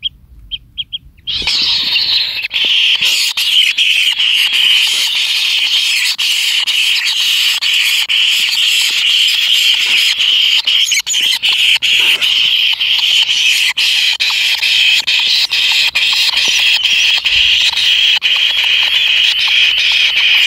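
Kingfisher nestlings calling in the nest: a few short chirps, then about a second in a loud, continuous high-pitched churring chorus of begging calls that does not let up.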